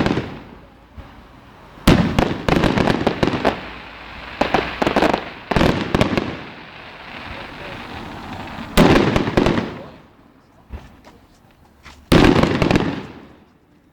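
Display fireworks bursting overhead: four loud bangs a few seconds apart, each followed by a spell of crackling that fades away.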